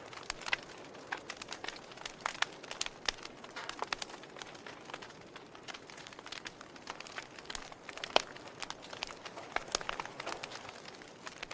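Fire burning, crackling with frequent irregular sharp pops over a soft steady hiss, with one louder pop about eight seconds in.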